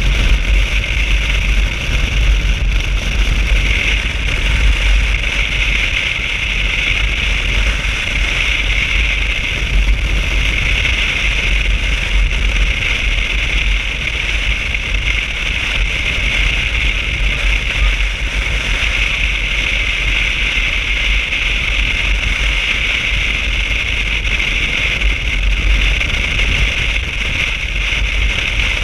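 Motorcycle riding at a steady speed: engine noise and wind rush with a deep rumble, unchanging.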